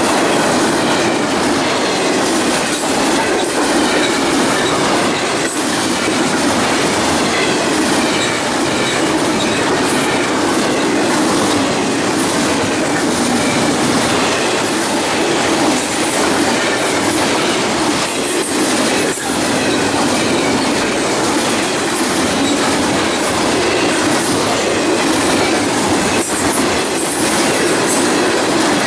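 Double-stack intermodal well cars of a freight train rolling past on steel wheels: a steady noise of wheels on rail, with a few irregular sharp clicks as wheels cross rail joints.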